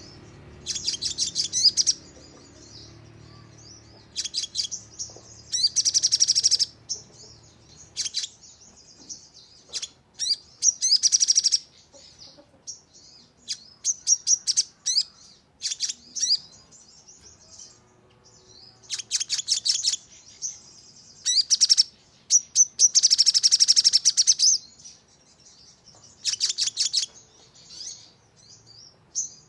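Sogon sunbird singing in the fast 'nembak' style: repeated bursts of rapid, high-pitched trills, each about a second long, separated by short pauses.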